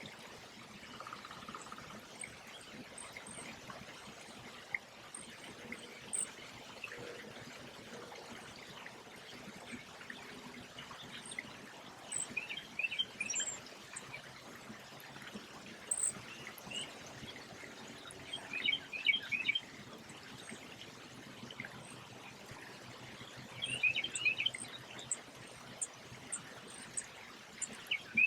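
Songbird singing a short, rapid chirping phrase, repeated about every five to six seconds, with faint high ticking calls scattered throughout, over a steady background rush.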